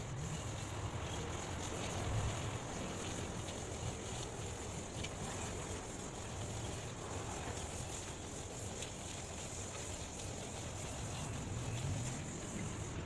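Steady outdoor background noise: wind buffeting the microphone in low rumbling swells over a steady high hiss.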